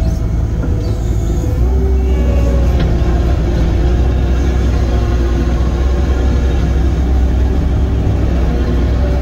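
Heavy equipment engine running steadily, a deep rumble that grows louder about a second and a half in.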